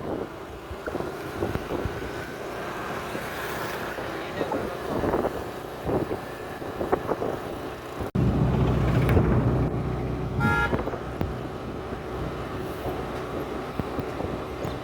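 Road vehicle noise with engines running. About eight seconds in it changes suddenly to a louder, steady low hum, and a short horn toot sounds about two seconds later.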